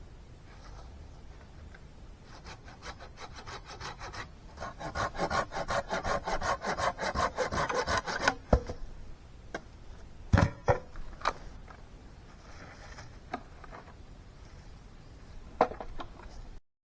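A hand saw cutting through wood in quick back-and-forth strokes that build and grow loud for a few seconds, then stop. Several separate wooden knocks follow.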